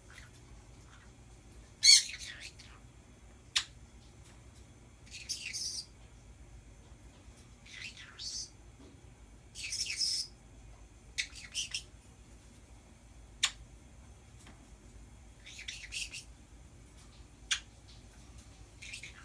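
Pet birds chattering: a string of short squawks and sharp high chirps, one every second or two, with a loud screech about two seconds in.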